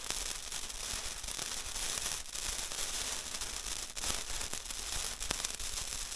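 A burning festive table candle fizzing and crackling: a steady hiss full of tiny pops, cutting off abruptly at the end.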